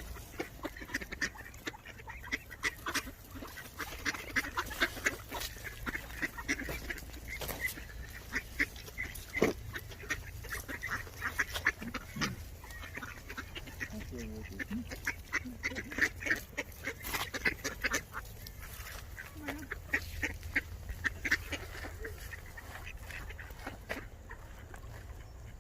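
A flock of ducks calling: many short, overlapping quacks and honks, over a steady low rumble.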